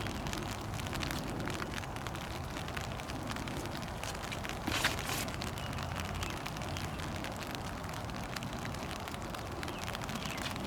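Steady outdoor background noise full of fine crackling, with one brief louder burst about five seconds in.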